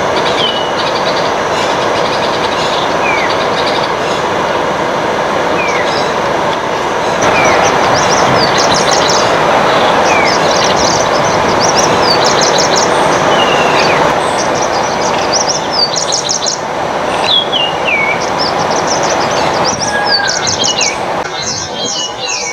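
Birds calling over a steady, loud rushing noise: short falling whistled notes repeat every two to three seconds, and from about seven seconds in, bursts of rapid high chirps join them.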